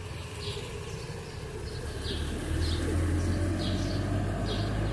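A small bird chirping over and over, short high chirps about once or twice a second, over a low rumble that grows louder about halfway through.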